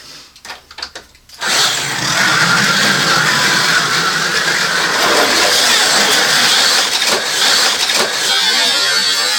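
1/43 scale Carrera Go slot cars running on the plastic track: small electric motors whining and the cars clattering over the track. The sound starts suddenly about a second and a half in, after a few faint clicks, and then holds steady and loud.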